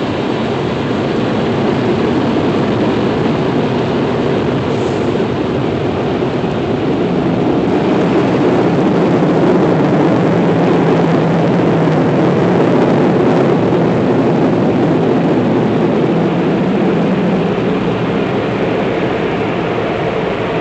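Car wash running: a loud, steady rumbling wash of machinery and spray noise that swells slightly midway through.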